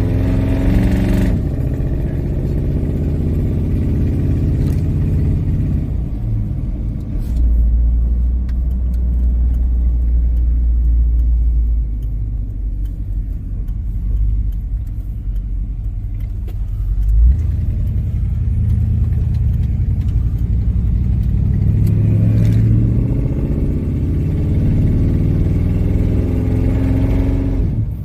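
Squarebody Chevy pickup's engine pulling hard through its gears on a first test drive, checking that the transmission shifts. The pitch climbs and drops back at each shift, with a steady low drone while cruising in the middle, then climbs again near the end.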